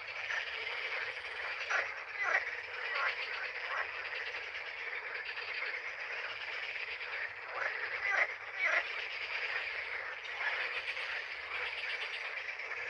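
A dense chorus of frogs calling without pause, with a few louder croaks standing out about two seconds in and again around eight seconds in.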